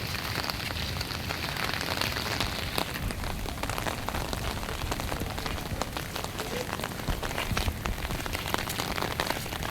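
Heavy typhoon rain and strong wind: a dense, steady hiss dotted with many sharp taps of drops striking, over a low rumble of wind.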